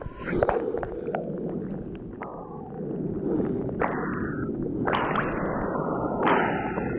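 Water sloshing and splashing close to the microphone as a person wades and moves in a cold river pool, with several sudden swishes over a constant murky rush of water.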